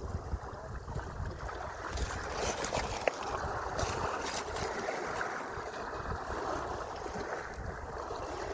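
Sea waves washing in a steady rush, with wind rumbling on the microphone.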